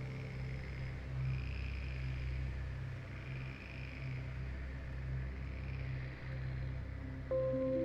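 A low, steady ambient music drone under a soft, high animal chorus that swells and fades in slow waves. Clear sustained music notes come in near the end.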